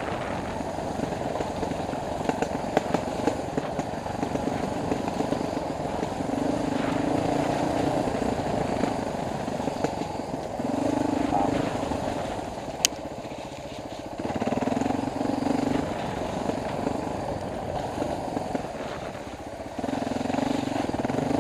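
Dual-sport motorcycle engine running while riding trail, with four louder surges as the throttle is opened and let off, over steady wind and road noise at a helmet-mounted camera. A single sharp click comes about 13 seconds in.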